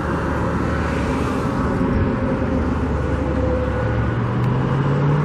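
Road traffic: a steady rumble of passing vehicles, with one engine rising slowly in pitch from about four seconds in as a vehicle speeds up.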